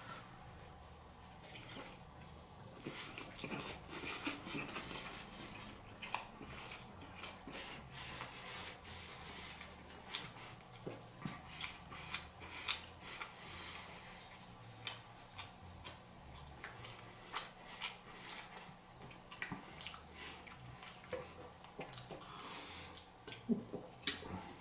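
Close-miked eating: chewing and mouth noises with many short sharp clicks and crackles, busiest a few seconds in.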